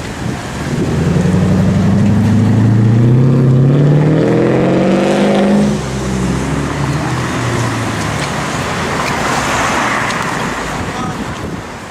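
Mercedes-Benz CL500 V8 with a Kicherer aftermarket exhaust accelerating hard, its note rising steadily for about five seconds, then cutting off abruptly. Afterwards a steady rush of road noise.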